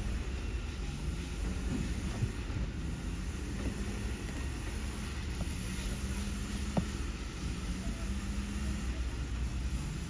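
Scania recycling truck's diesel engine running with a steady low rumble and hum, with a couple of short sharp knocks.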